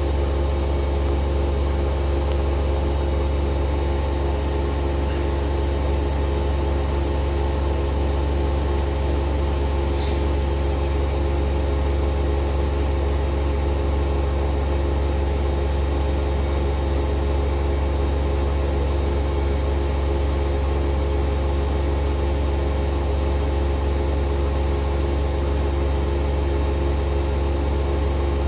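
Siemens washing machine in its spin cycle, the drum spinning at a steady speed with an even hum and whine that does not change.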